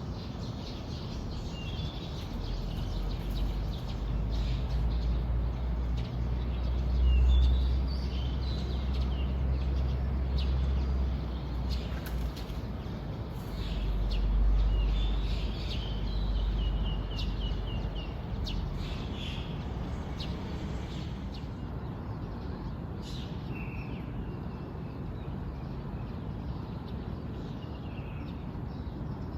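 Small songbirds chirping and twittering in short high calls, scattered through the whole stretch. Underneath, a low rumble swells and fades a few times during the first two-thirds, then eases off.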